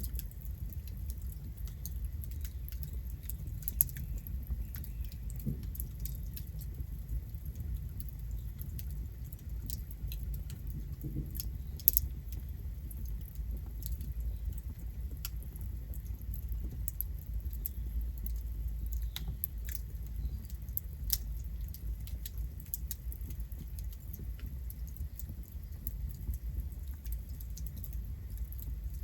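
Campfire burning: wood crackling with many small, irregular pops over a steady low rumble, the sharpest pop about twelve seconds in.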